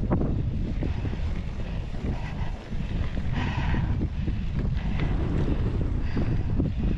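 Wind buffeting the microphone in a steady low rumble, with scattered light clicks and knocks and a brief hiss about halfway through.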